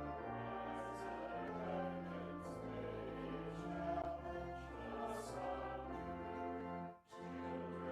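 Voices singing a hymn over sustained organ chords, the chords changing about once a second, with a brief break about seven seconds in before the music resumes.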